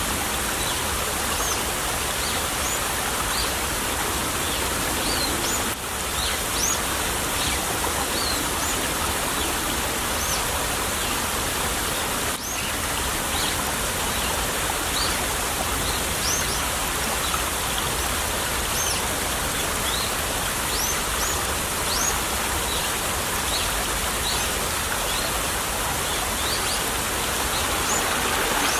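Small stream babbling and trickling steadily, with many short, high bird chirps scattered over it. The water grows a little louder near the end.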